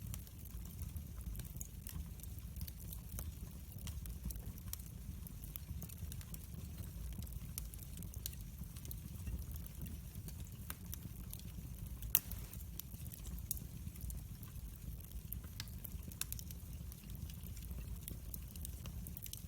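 Wood fire in a fireplace crackling, with scattered sharp pops over a steady low rumble of the burning and one louder pop about twelve seconds in.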